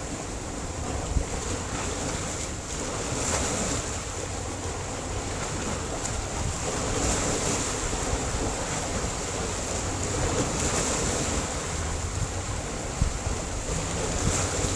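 Sea surf breaking and washing over a rocky shore: a continuous rush that swells and eases, with a couple of sharper splashes.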